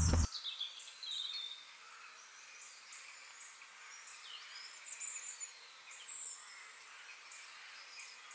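Faint outdoor ambience with scattered short, high bird chirps and calls.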